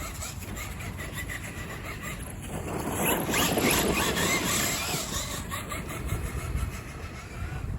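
Losi LMT 1/8-scale RC monster truck running, its electric motor and drivetrain whining in pitch that rises and falls as it speeds up and slows, loudest around the middle, over a low rumble.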